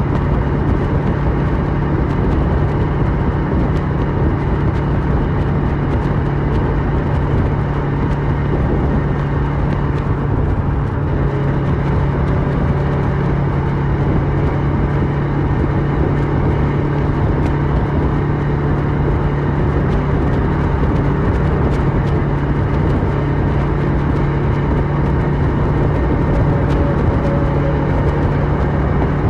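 Kawasaki Versys 650 parallel-twin engine with a Mivv slip-on exhaust, running at a steady pace with no revving, over a steady rush of wind and road noise.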